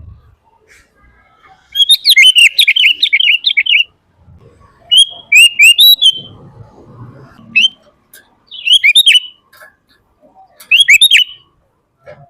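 Sooty-headed bulbul singing in bursts of quick, bubbly chattering phrases. The first burst is the longest, about two seconds, and four shorter bursts follow with short pauses between them.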